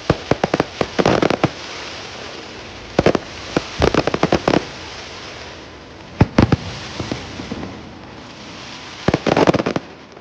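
Aerial fireworks bursting overhead in four clusters of sharp bangs and crackle, a few seconds apart.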